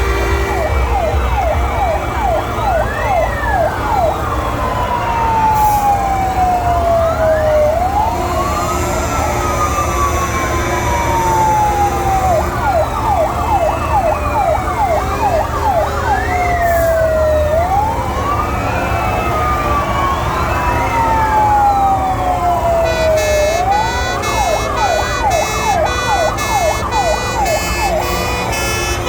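Several fire engine sirens sounding at once over a low rumble: slow wails that rise quickly and fall away over a few seconds overlap with fast yelping sweeps. About three-quarters of the way through, a rapidly pulsing high tone joins in.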